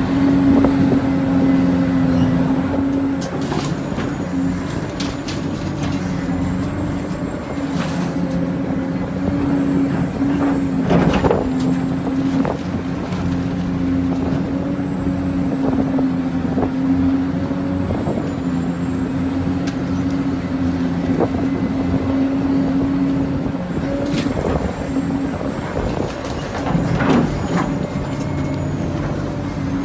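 Radio-controlled construction models running: a steady electric-motor and gearbox hum with a thin high whine that wavers slightly, broken by a few sharp clacks.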